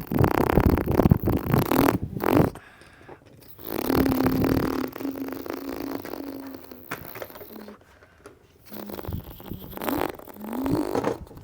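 A child imitating car engines with his mouth, making buzzing, sputtering lip-and-throat noises in three bursts. One burst is a held drone, and the pitch rises as if revving near the end of a burst.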